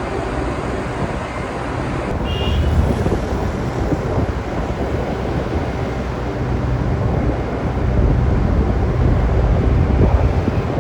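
JCB 3DX backhoe loader's diesel engine running under load while working ground, growing louder about three seconds in and again near the end.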